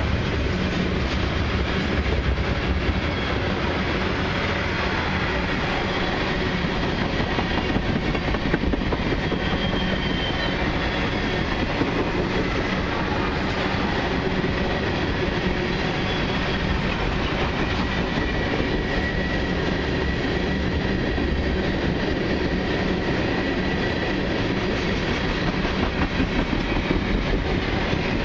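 Tank cars of a long freight train rolling past close by: a steady rumble and clatter of steel wheels on the rails.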